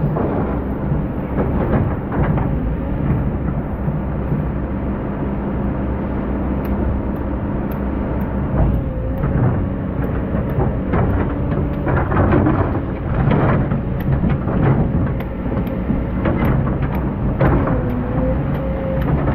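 Excavator's diesel engine running steadily, its note dipping briefly twice as it takes load. From about halfway through, repeated clanks and rattles come in over the engine.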